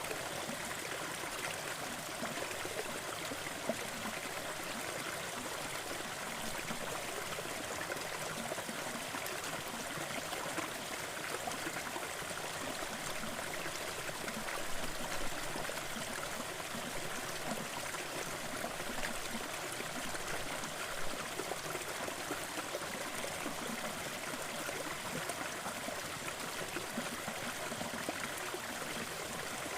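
Small forest waterfall: a steady rush of falling, splashing water, with a few slightly louder splashes now and then.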